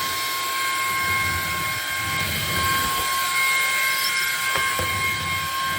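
Ryobi cordless stick vacuum running, its motor giving a steady high-pitched whine over the rush of air, with a couple of short clicks about three-quarters of the way through.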